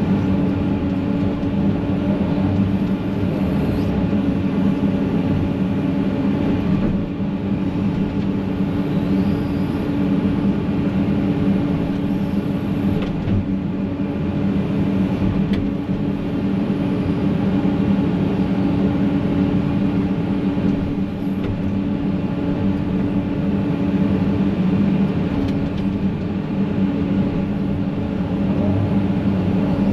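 Excavator's diesel engine running steadily under load, a constant low drone with no pauses.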